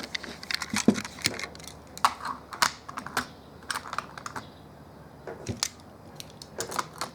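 Irregular small clicks and clacks of toy cars and hard plastic toy-track parts being handled and set down.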